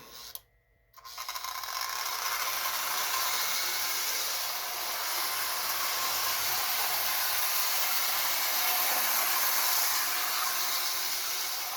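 Lionel 2046 model steam locomotive running along the track with its train: a steady rushing rumble of the motor and the wheels on the rails, starting after a brief silence about a second in.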